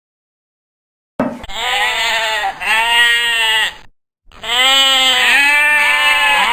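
Two long, wavering bleats from a sheep or goat, coming after about a second of silence with a short break between them.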